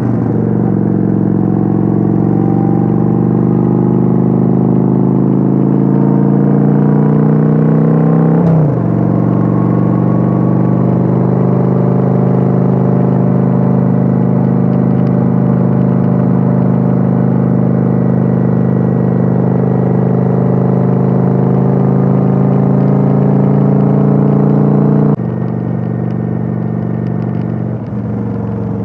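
Kawasaki Vulcan 900 V-twin motorcycle engine under way: the engine note climbs steadily while accelerating, drops sharply about a third of the way in with an upshift, then holds steady at cruising speed. Near the end the engine sound suddenly becomes quieter.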